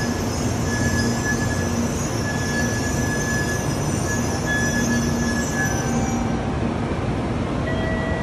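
Doctor Yellow, the 923-series Shinkansen track-inspection train, rolling slowly along a station platform as it pulls in to stop, with a steady rumble of wheels and running gear. A faint high whine comes and goes over it, and the high hiss dies away near the end as the train slows.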